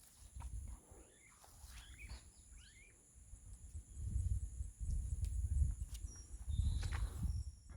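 Outdoor nature ambience: birds give a few short chirps in the middle, over a steady high drone. Uneven low rumbling comes in during the second half.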